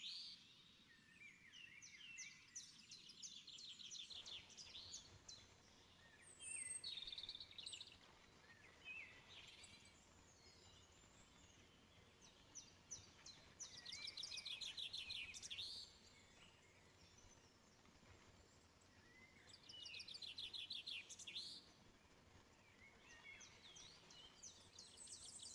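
Faint songbirds singing: bursts of rapid, high trilled notes lasting a second or two, repeating every few seconds, with scattered single chirps between.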